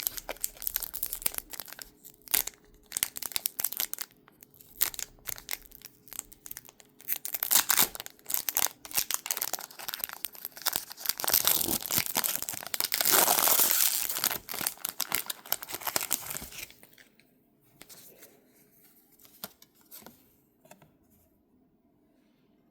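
Packaging wrapper being torn open and crinkled by hand in irregular rips and rustles, with one longer, louder tear past the middle. It stops about three-quarters of the way through, leaving only faint handling ticks.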